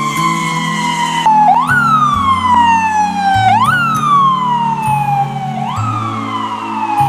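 Emergency-vehicle siren wailing: the pitch climbs quickly and then slides slowly down over about two seconds, three times over. Background music with low sustained notes plays underneath.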